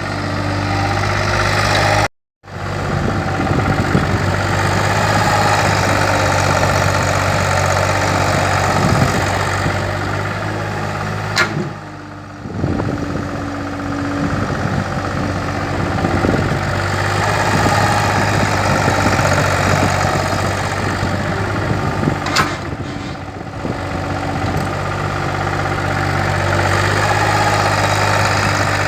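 Kobelco excavator's diesel engine running steadily as it works. The sound cuts out completely for a moment about two seconds in, and there are two sharp clanks, one near the middle and one about three quarters of the way through.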